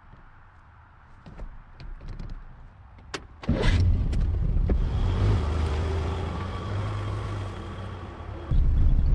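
A few clicks, then a car engine starts suddenly about a third of the way in and keeps running with a steady low note, getting louder near the end.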